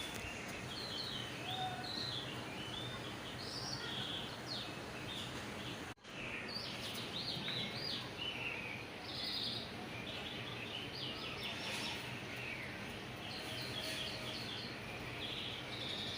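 Small birds chirping over and over, short high chirps over a steady background hiss, with a brief break in the sound about six seconds in.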